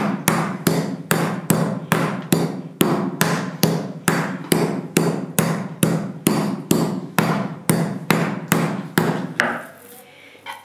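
Meat mallet pounding a pork cutlet flat on a wooden cutting board to make schnitzel: a steady run of sharp blows, about two to three a second, that stops shortly before the end.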